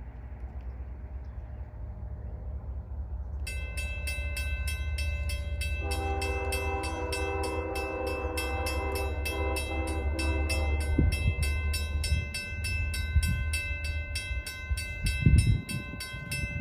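Diesel locomotive running light with no cars, its engine rumbling louder as it approaches a grade crossing. About three and a half seconds in, the crossing bell starts ringing steadily. A couple of seconds later the locomotive's Nathan K5HL five-chime horn sounds one long blast of about five seconds, followed by heavy low thumps as the engine passes.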